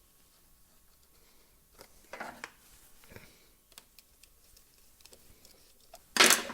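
Small parts and tools being handled and shifted on a workbench while searching for a missing screw: scattered light clicks and taps with soft rustling, then a louder brief clatter near the end.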